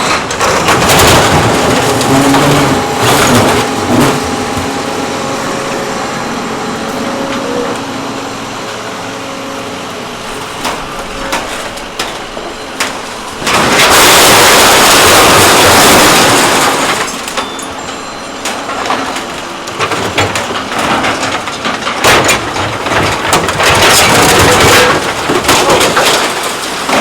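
Loud machinery noise from a truck, broken by many sharp clanks and cracks, with a louder rushing blast lasting about three seconds midway.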